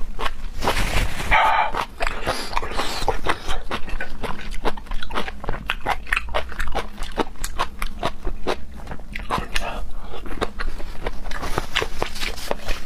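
Close-miked chewing of scallop meat: many quick, irregular wet mouth clicks and smacks.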